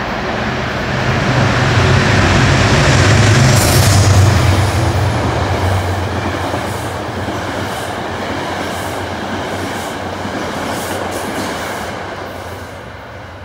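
Metro-North commuter train of coaches running past on the rails, loudest a few seconds in with a low rumble, then fading as it moves away.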